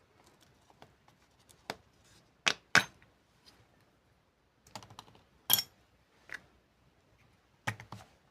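Sharp clicks and clinks of small metal parts of a delivery valve being handled, set down and knocked together, in scattered single strikes. The loudest are a pair about two and a half seconds in and one about five and a half seconds in.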